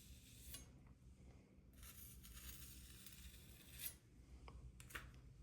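Near silence, with a few faint, brief scrapes spread through it, the last one slightly louder near the end.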